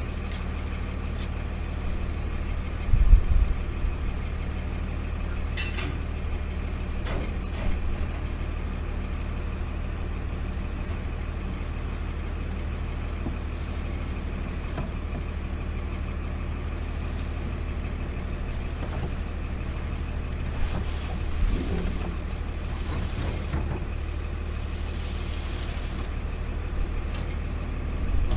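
Automated sideload garbage truck's engine running steadily in the cab, with a few clicks and a couple of heavy low thumps, one about three seconds in and one at the very end.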